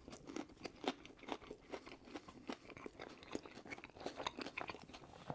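Close-miked eating: crunchy bites and chewing of fast food, an irregular run of short crisp crunches and mouth clicks, several a second.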